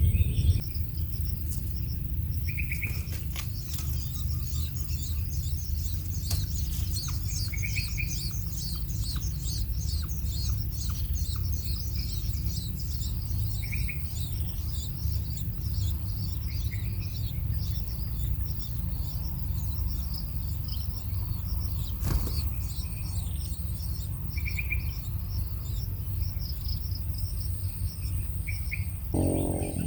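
Small birds chirping in a fast, continuous high twitter, with a short lower call every few seconds, over a steady low rumble.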